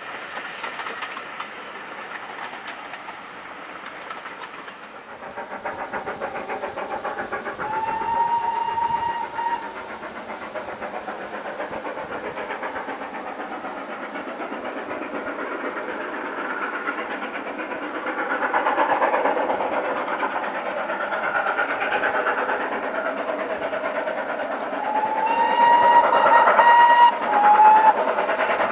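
Steam locomotive working a train: a steady rush of exhaust and running noise that grows louder in the second half. Its steam whistle sounds about eight seconds in, and again longer near the end, followed by a short toot.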